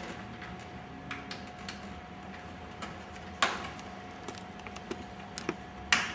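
Plastic snap plugs and injection-moulded panels being handled and pushed together: a run of small light clicks, with two sharper snaps about three and a half seconds in and near the end.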